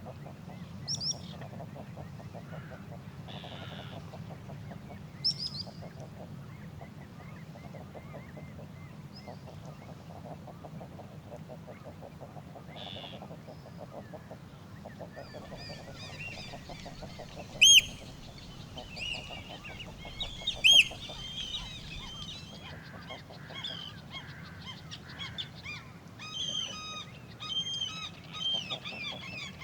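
Shore birds calling: a few single calls early on, then from about halfway a flock with many overlapping calls that grow denser toward the end, over a steady low background rumble.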